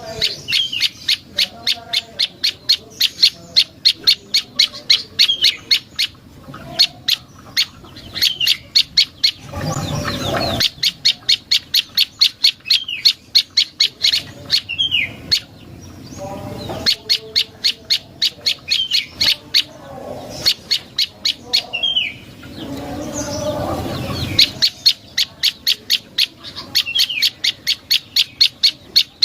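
Prenjak lumut calling: long runs of sharp, rapidly repeated chip notes, about three or four a second, mixed with short slurred whistles. A few brief bursts of noise break the runs.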